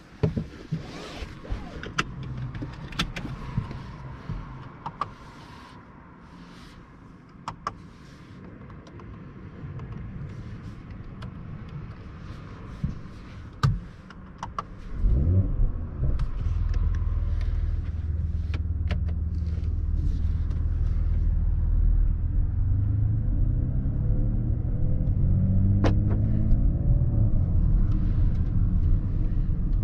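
A Mercedes-AMG GLE 53's 3.0-litre inline-six engine starts about halfway through with a brief loud flare, then runs and climbs in pitch near the end. Before the start there are only scattered clicks and knocks.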